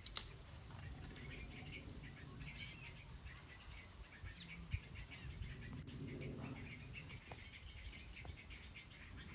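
Faint birds chirping over a low, steady outdoor rumble, with a sharp click just after the start and another about halfway through.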